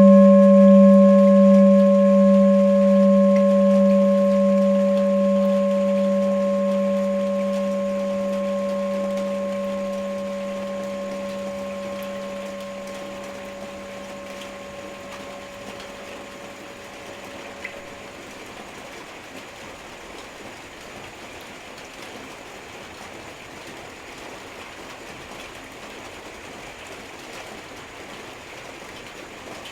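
Tibetan singing bowl ringing after a single strike, its low tone wavering with a slow beat over higher overtones, fading away over about eighteen seconds. Steady heavy rain runs underneath and is left alone once the ring dies out.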